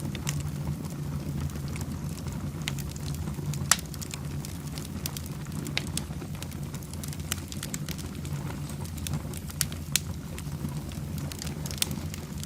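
Fireplace fire crackling: a steady low rumble of flames with sharp pops scattered throughout, one loud pop about four seconds in and another around ten seconds.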